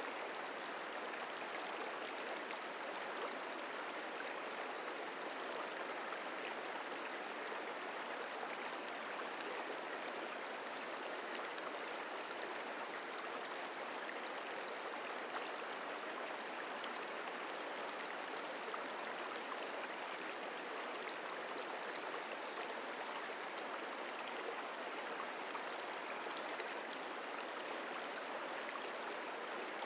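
The Merced River flowing: a steady rushing of moving water.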